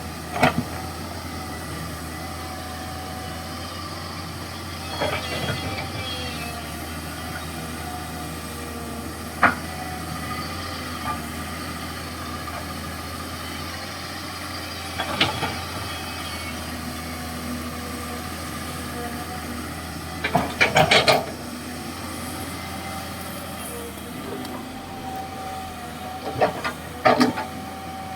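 Komatsu PC200-6 hydraulic excavator running steadily while digging, its diesel engine humming under a faint hydraulic whine. Sharp clanks come every few seconds, with a quick run of them about twenty seconds in and more near the end.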